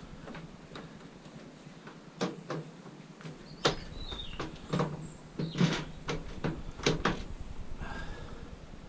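Scattered knocks and clanks of scrap metal being handled and worked, about eight separate hits over a few seconds.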